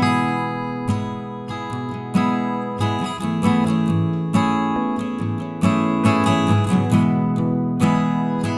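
Background music: acoustic guitar strummed chords.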